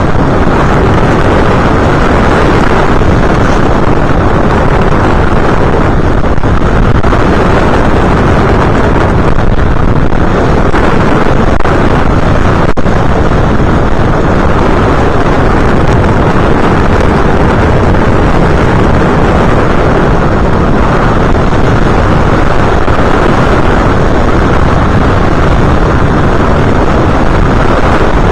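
Steady, loud rush of wind over the onboard camera's microphone on an FPV aircraft in flight, with no distinct motor tone standing out.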